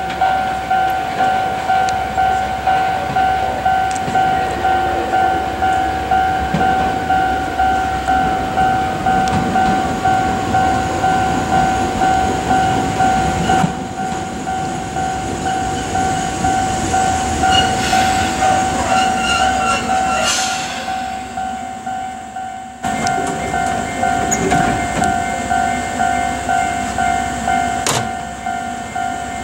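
Chichibu Railway 7500 series electric train pulling into the station and slowing to a stop: a falling motor whine, rumble and wheel clatter, and a brief high squeal of the brakes near the stop. Throughout, a warning bell rings with an even, steady pulse.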